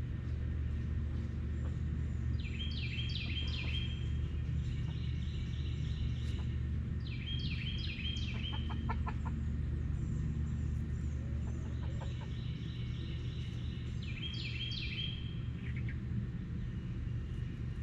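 Chickens clucking in several short bursts of quickly repeated calls, over a steady low rumble.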